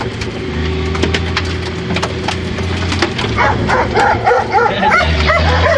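Dogs barking and yelping in quick succession from about three seconds in, over the steady running of a 1977 Jeep CJ5's engine. Sharp knocks of flung stones and mud hitting the vehicle.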